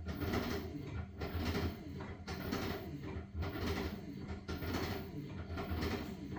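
LG washing machine washing a load of blankets: the drum turning with repeated swishes of wet fabric and water about once or twice a second, over a steady low motor hum.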